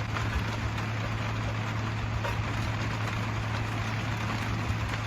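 A steady low mechanical hum, like a motor running without change, over an even background hiss.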